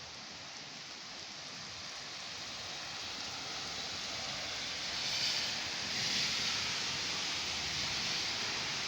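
Steady hiss of thunderstorm rain and wind, slowly growing louder and swelling about halfway through.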